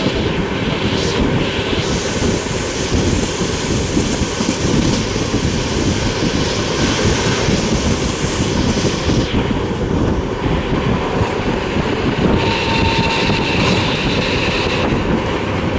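A moving passenger train heard from on board: a steady, loud rumble of the wheels running on the track.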